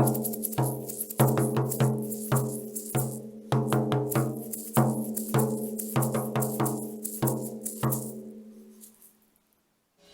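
A percussion ostinato of struck, pitched notes in a short pattern repeating about every second and a bit, over a held low tone. It dies away and stops about nine seconds in.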